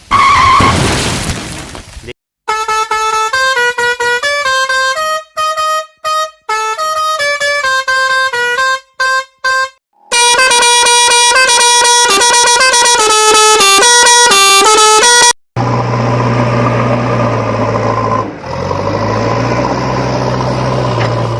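Animated-vehicle soundtrack: a short whoosh, then a tune of short stepped notes like a musical vehicle horn, then a steady low engine hum that changes pitch once, about 18 seconds in.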